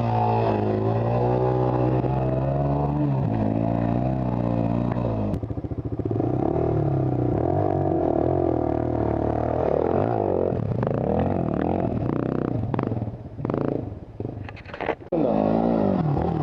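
Yamaha WR250R's single-cylinder four-stroke engine revving under load on a dirt hill climb from a standing start, the revs rising and falling unevenly. About thirteen seconds in the engine sound drops away to a few short blips, then picks up again near the end.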